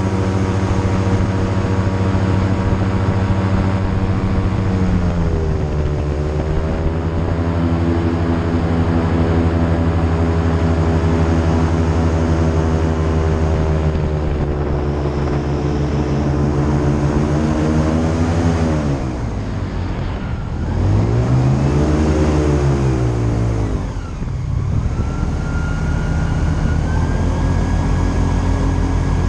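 Airboat engine and propeller running loud. The pitch drops about five seconds in, the engine throttles down near the middle, briefly revs up and back down, then settles to a steady run.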